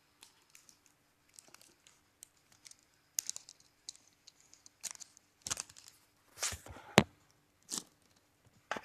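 Packaging being handled and torn open: crinkling and tearing with scattered small clicks, thickening from about three seconds in, and one sharp click about seven seconds in.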